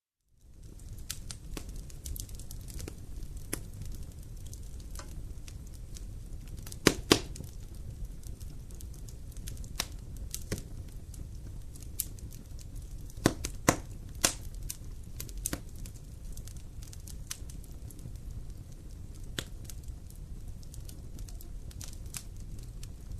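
Campfire crackling: scattered sharp pops and snaps from burning wood over a steady low rumble. The loudest are two pops close together about a third of the way in and another pair a little past halfway.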